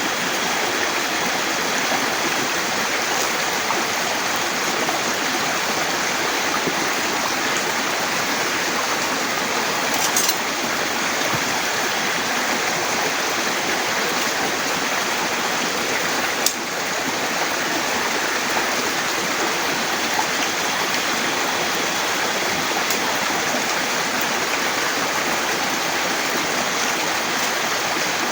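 Heavy rain falling steadily, with a couple of brief sharp knocks, about ten and sixteen seconds in.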